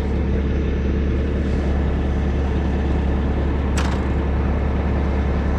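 Heavy tow truck's engine running steadily with a deep, unbroken hum. A short sharp click sounds about four seconds in.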